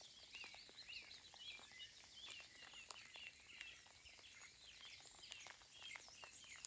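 Faint outdoor birdsong, many small birds chirping quickly and repeatedly, over light scattered ticks of rain patter.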